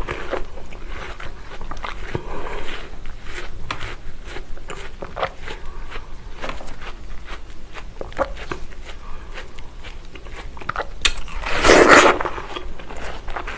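Close-miked chewing of juicy watermelon flesh: a run of small wet, crisp crunches. About eleven seconds in comes a louder crunch as a fresh bite is taken from a watermelon wedge.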